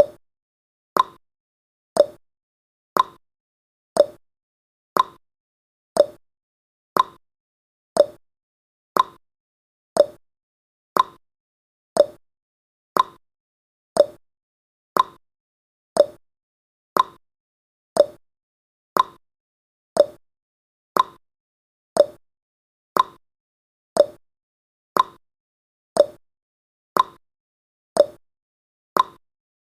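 A countdown timer's ticking sound effect, one short tick every second with silence between, alternating between a slightly higher and a slightly lower tick like a clock's tick-tock.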